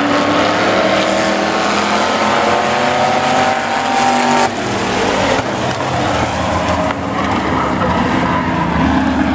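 Demolition-race pickup trucks running hard around a speedway oval, several engines at once. One engine climbs steadily in pitch under acceleration for about four seconds, then breaks off sharply, and the pack's engine noise carries on.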